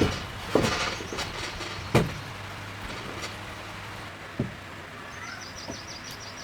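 A handful of separate sharp knocks or blows at irregular intervals, the loudest about two seconds in, followed near the end by a small bird's quick high trill of short repeated notes.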